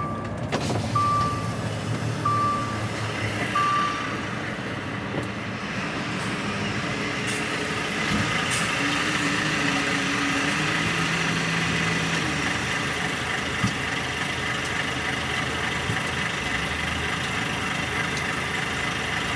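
A vehicle's reversing alarm beeps four times, about one beep every 1.3 seconds, then stops. Under it a heavy diesel engine keeps running steadily, growing a little louder after several seconds.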